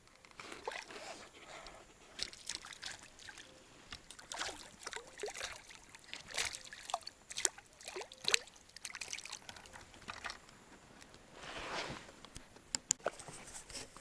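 Water splashing, trickling and dripping beside a small boat, in irregular bursts with short knocks and squeaks, and a longer splash about twelve seconds in.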